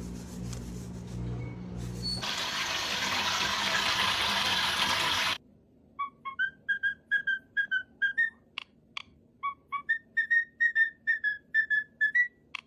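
A rushing hiss for about three seconds that cuts off sharply, then a parrot whistling a quick tune of about twenty short, clear notes, with two sharp clicks among them.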